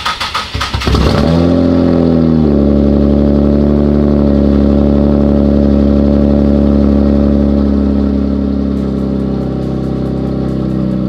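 Twin-turbo V6 Nissan Z car engine starting: it catches with a brief rev flare, then settles into a steady idle.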